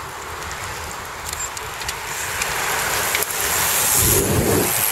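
A racing bicycle passing close: a rushing whoosh of tyres and air that swells to its loudest about four seconds in, with wind buffeting the microphone as it goes by.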